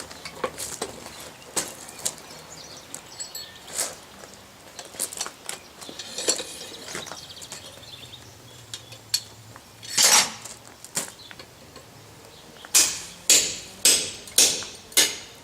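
Hammer blows on a blacksmith's punch, driving it through a freshly punched hole in hot steel to drift the hole open. Lighter metal clinks come first, then one hard blow about ten seconds in, then a run of six evenly spaced blows about half a second apart near the end.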